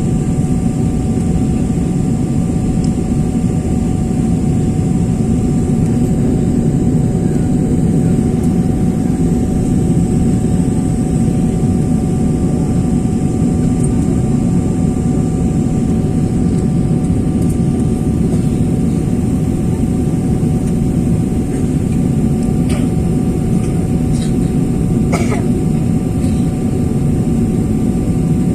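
Steady low drone of a jet airliner heard from inside the cabin, with a few faint high steady tones over it and a couple of small clicks near the end.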